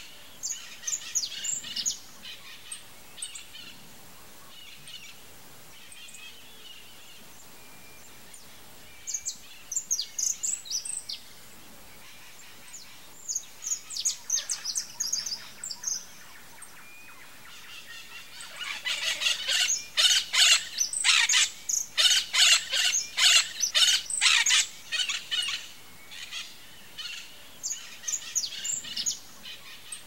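Wild birds calling: bouts of high, rapid chirping and chattering, several short runs and one longer, louder, dense run of chatter about two-thirds of the way through.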